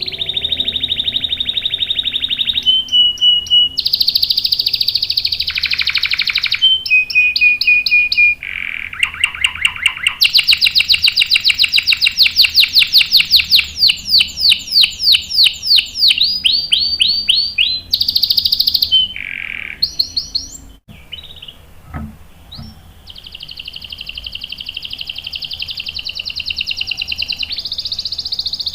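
Domestic canary singing long rolling song: fast trills and steady rolls that change from phrase to phrase, with a short pause about two-thirds of the way through before one long roll.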